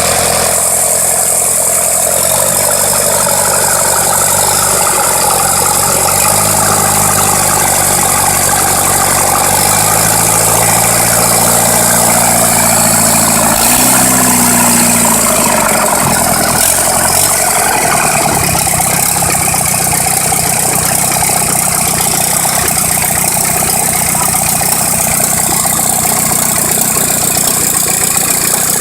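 Rebuilt DV57 engine running, its speed rising and falling in steps for the first half, then settling into a steady idle with a fast rattling pulse.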